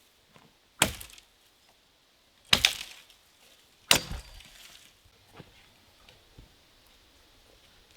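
Sharp chopping strikes of a tool into wood: loud hits about a second in, a quick double hit at two and a half seconds and another at four seconds, then two fainter knocks. The hit at four seconds has a brief metallic ring.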